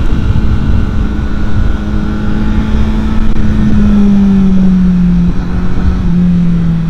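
Motor vehicle driving, with a steady engine drone over low road rumble; the engine pitch slowly falls through the second half as it eases off.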